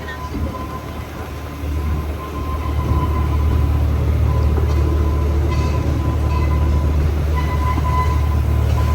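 Steady low mechanical rumble of a moving amusement-park ride, growing louder about two seconds in, with a faint steady high-pitched tone above it.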